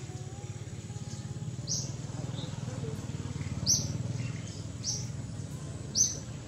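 A bird giving short, high chirps: four loud ones spaced a second or two apart, with fainter ones between, over a steady low hum.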